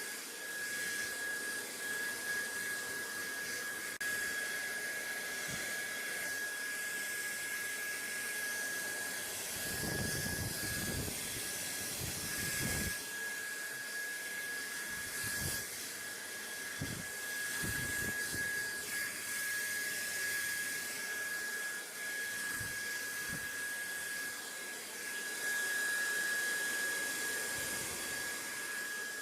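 Steady rushing hiss with a constant thin high whine through it, as from a small electric blower motor running without change. A few soft low thumps come and go, most of them around ten to thirteen seconds in.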